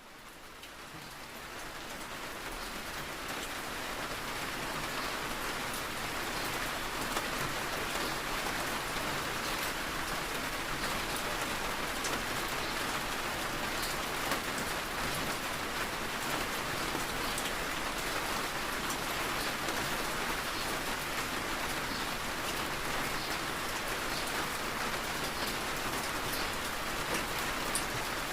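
Steady rain falling, with scattered drop ticks, fading in over the first few seconds and then holding at an even level.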